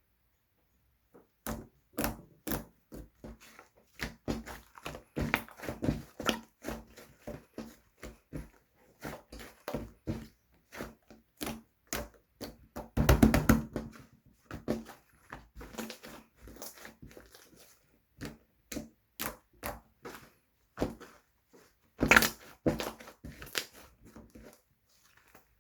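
Slime being squeezed and poked by hand, giving a run of irregular short clicks and pops, with a denser, louder stretch about halfway through and another near the end.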